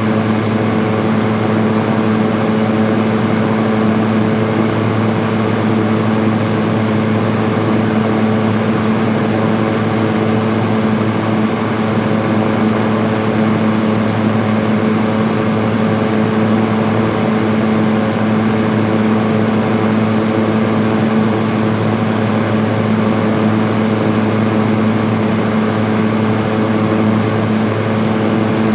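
Electric fan running steadily on high speed: an even rush of air with a steady motor hum.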